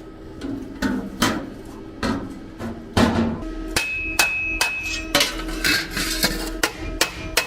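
Hammer blows on metal, a dozen or more irregular strikes.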